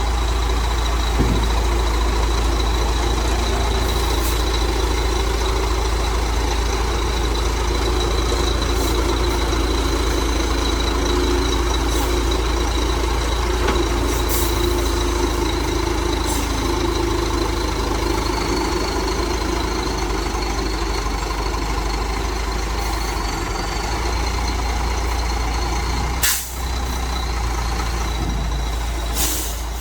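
Heavy truck engine running steadily, with a steady high whine above it. A few short, sharp air hisses cut in, the loudest near the end.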